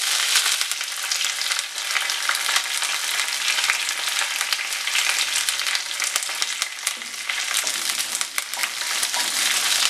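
Chopped shallots, curry leaves and dried red chillies sizzling loudly in hot oil with mustard seeds in a non-stick pan, stirred now and then with a wooden spatula: the tempering stage of a Kerala thoran.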